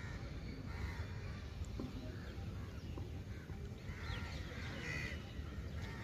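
Outdoor ambience with a steady low rumble and a few harsh bird calls, one about a second in and more around four to five seconds in.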